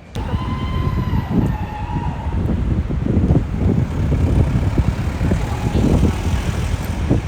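Street traffic noise with heavy gusty rumble on the microphone, and a steady high tone with overtones over the first two seconds or so.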